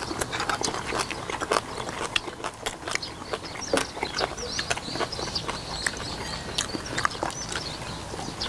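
Close-miked eating sounds of people chewing braised pig's feet (jokbal): wet chewing and lip-smacking, an irregular run of sharp mouth clicks.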